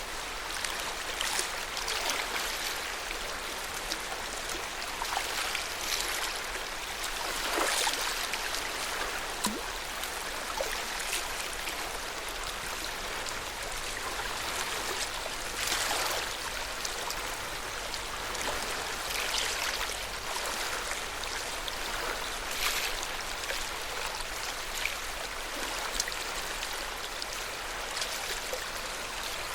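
Lake water lapping at the shore: a steady wash with soft splashes every few seconds.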